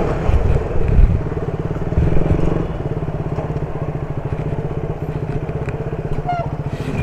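Motorcycle engine idling with a steady, rapid, even pulse, with a few low thumps in the first two seconds.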